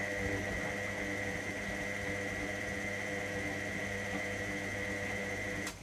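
Electra AWF683 washing machine's drum motor running at a steady speed with a high whine, turning the drum one way during the wash, then cutting off abruptly near the end.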